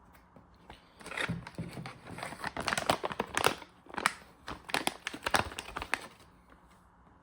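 Packaging crinkling and rustling as it is handled, a dense run of small crackles lasting about five seconds, starting about a second in.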